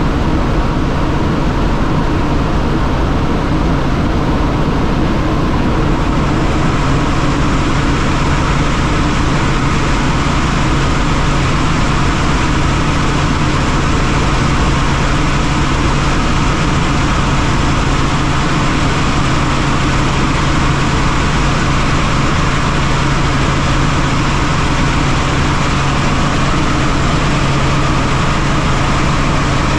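Helicopter running: a steady, loud drone with a constant low hum.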